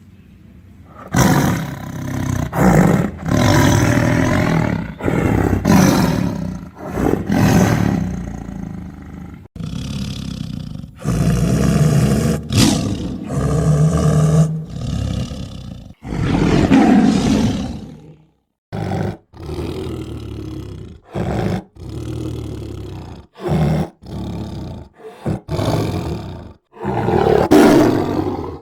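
Tiger roaring over and over, a string of deep, rough, loud roars and snarls starting about a second in. Several of them break off abruptly, as in spliced sound-effect clips.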